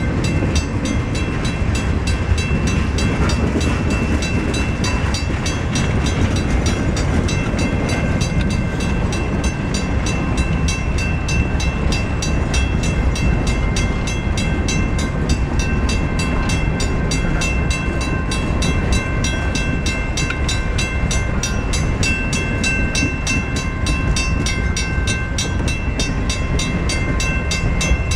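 Freight cars rolling steadily past: a continuous rumble and clatter of steel wheels on rail, with several steady high-pitched tones over it.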